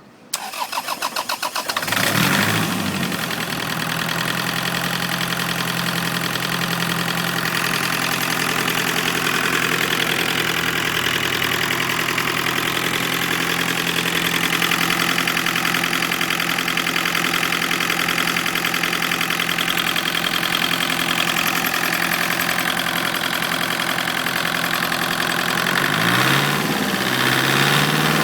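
Lister LPW4 four-cylinder marine diesel engine turned over on the starter, catching after about two seconds and settling into a steady idle. The revs rise briefly near the end.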